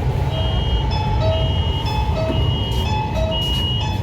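Steady low rumble of an electric metro train running, under a simple electronic chime melody of clear, pure notes that change about twice a second.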